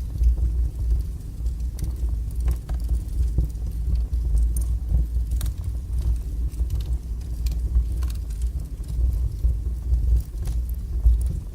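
Wood fire burning strongly in a fireplace: a steady low rush of flame with scattered sharp crackles and pops.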